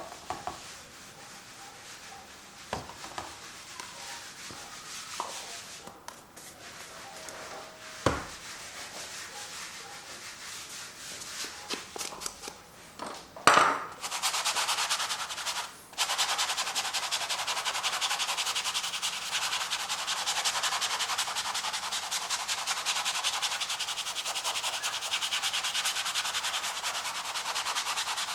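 Acrylic paint being worked onto a canvas. After a few light taps and a louder knock, a fast, steady scrubbing of a tool across the canvas starts about halfway through and keeps going.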